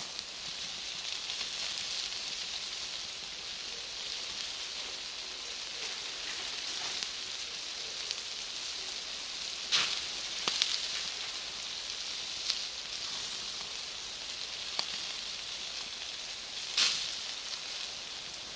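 Bonfire of Iwate cut charcoal and firewood burning with a steady hiss, broken by sharp pops as the charcoal cracks. About six pops come through, the loudest near the middle and near the end.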